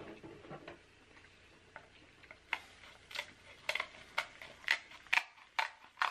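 King crab leg shell being cut and broken open: a quiet start, then a run of about eight sharp cracks and snips, roughly two a second.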